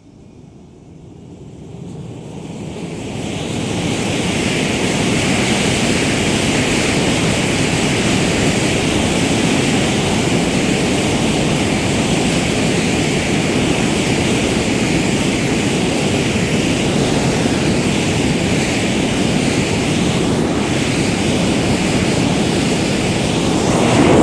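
Jet engine running with a steady roar and a hissing upper whine, fading in over the first few seconds and then holding level.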